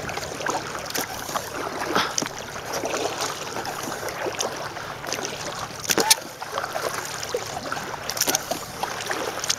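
Water lapping and splashing around a kayak, with a few brief sharp splashes about two, six and eight seconds in.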